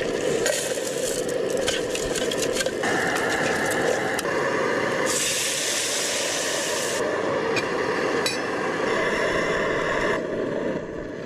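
Camp cooking: a steady frying hiss with utensils clinking and scraping, strongest in the first few seconds, and a brighter hiss partway through. The sound changes abruptly a few times.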